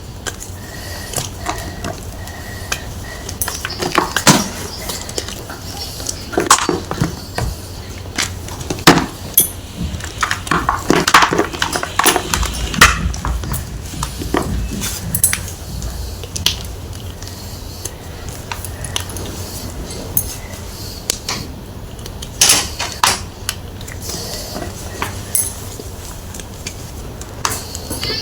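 Gym chalk being crushed: crunches and crackles coming at irregular intervals, bunched in clusters with short pauses between.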